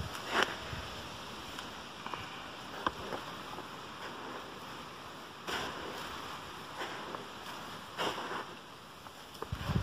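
Dry chicken feed, cracked corn and ration, being mixed and poured by hand. There are a few short rustling sweeps of grain, about half a second in, midway and near the end, over a steady background hiss.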